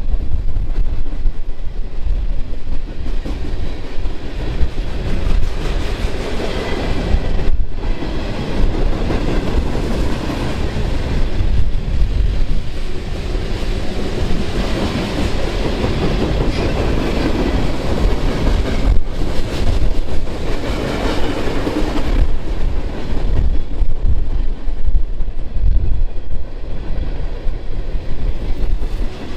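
Passing train, its noise swelling from about six seconds in and easing off after about twenty-two seconds, over a constant low rumble.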